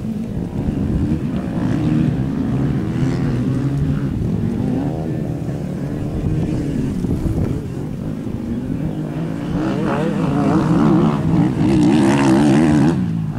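Motocross bike engine revving up and down as the bike is ridden, its pitch rising and falling, and loudest near the end with wind noise around it.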